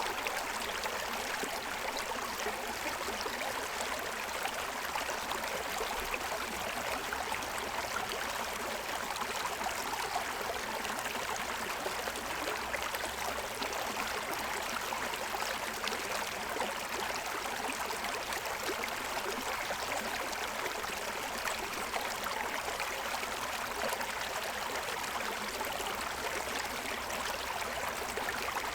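A shallow stream running over the stones of its bed, giving a steady, even rush of water with no letup.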